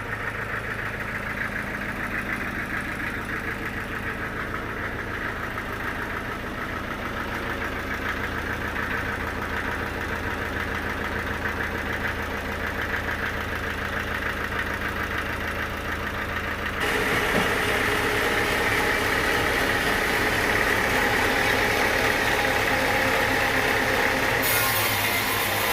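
Sawmill machinery running steadily with an even mechanical hum. About two-thirds of the way through it turns abruptly louder and brighter.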